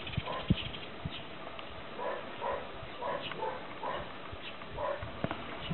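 A dog making short, soft whines over and over, with a few light knocks in between.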